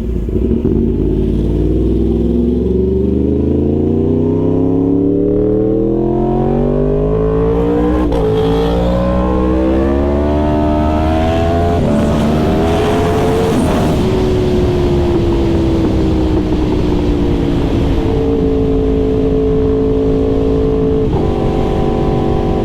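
Yamaha R1 sportbike's inline-four engine under way, its pitch climbing slowly for about twelve seconds with a brief break partway up, then falling away and holding steady, with a small step in pitch near the end.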